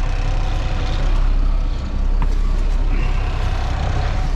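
Semi truck's diesel engine idling steadily as it warms up after a hard start, with a deep, even rumble. A single sharp click a little past two seconds in.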